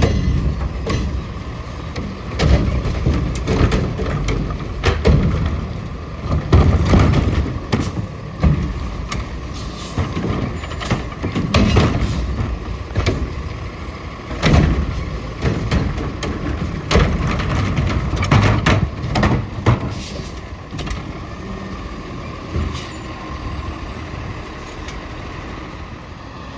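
Autocar ACX garbage truck with a Heil Curotto Can at work: the engine runs under a steady whine, with many irregular bangs and clatters that thin out and grow quieter after about 20 seconds.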